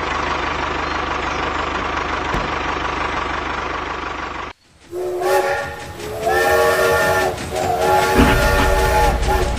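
A miniature tractor runs steadily with a low hum, then stops abruptly. A toy steam train's whistle then toots about five times in quick succession, and a low running rumble joins in near the end.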